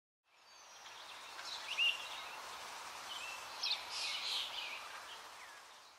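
Faint birds chirping over a steady outdoor hiss that fades in and out, with the clearest chirps about two seconds in and again near four seconds.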